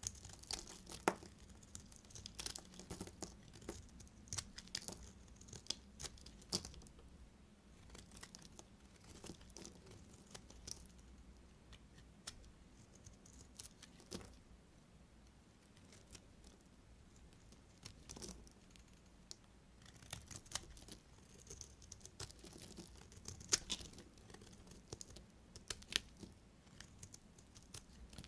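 Knife cutting through dry, crunchy soap: a run of sharp crackles and snaps, thick at first, sparse in the middle, and thick again near the end.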